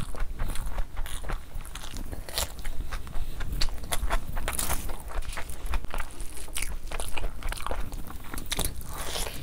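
Close-miked wet chewing and lip smacking of a mouthful of mutton curry and vegetable pulao, with a dense run of sharp mouth clicks and the squish of gravy-soaked rice in the fingers.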